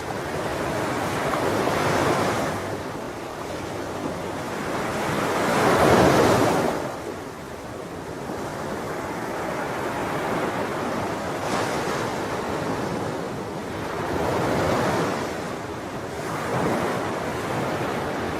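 Sea waves breaking on a shore, a steady wash of surf that swells with each wave, the loudest crash about six seconds in.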